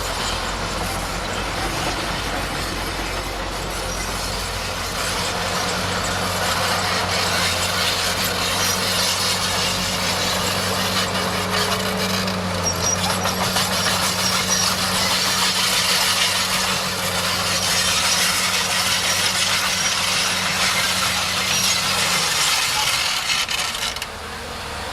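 Bulldozer at work: its diesel engine runs at a steady note while a dense metallic clatter and grinding of tracks and earth builds up. The engine note drops away near the end.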